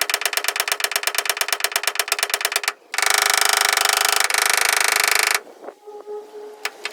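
A power tool hammering rapidly in even strokes, about a dozen a second; after a brief pause it runs again faster and louder for a couple of seconds, then stops suddenly.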